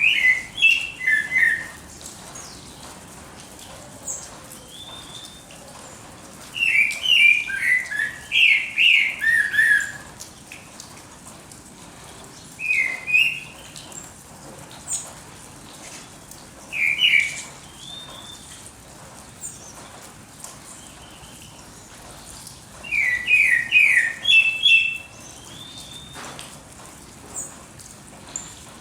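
Songbirds singing: bouts of quick, downward-slurred chirping phrases every few seconds, with fainter high calls in between.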